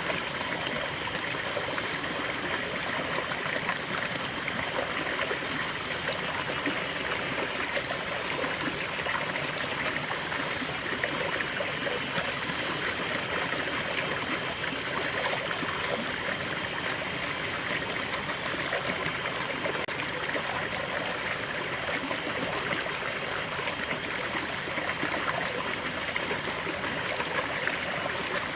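Small forest waterfall and stream flowing steadily, an even rush of splashing and trickling water with no breaks.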